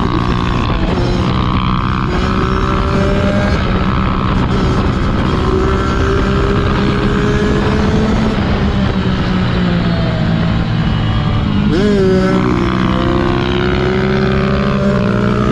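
Kawasaki dirt-bike engines running hard under riding load, pitch climbing slowly several times as they accelerate, with a sudden brief drop and rise in pitch about twelve seconds in.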